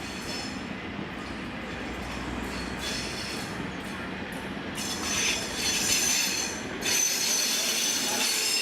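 Railway train rolling past with its wheels squealing on the rails, growing louder about five seconds in.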